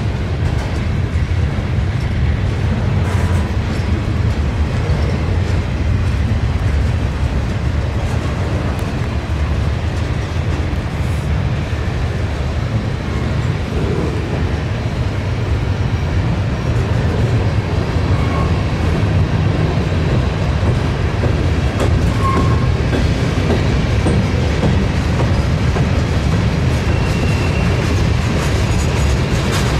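A train rolling steadily past on the rails, a continuous low rumble of wheels and cars.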